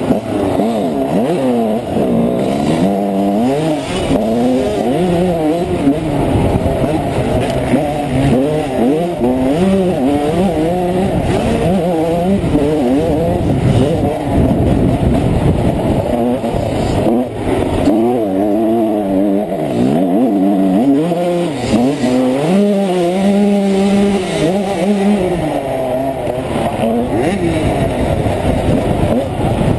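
Honda CR125 two-stroke single-cylinder motocross engine being ridden hard: the revs climb and drop over and over as it accelerates, shifts and backs off, with a few seconds held at steady revs past the middle.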